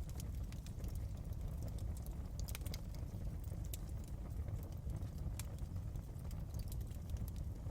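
Wood fire burning in a fireplace: a low steady rumble with sharp crackles and pops at irregular intervals, a few louder pops about two and a half and five and a half seconds in.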